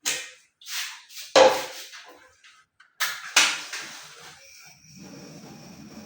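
Gas cooker being lit: a few sharp clicks and clanks, then from about four and a half seconds in the steady rush of the burner flame.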